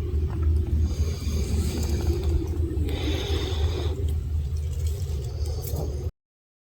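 A steady low rumble with scraping over it, as of a microphone being handled or buffeted on the move. It cuts off suddenly near the end.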